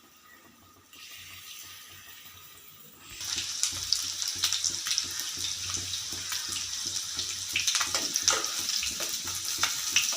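Battered chicken pieces sizzling as they go into hot sunflower oil in a pan: the frying hiss, with many small crackles, starts about three seconds in and keeps on steadily.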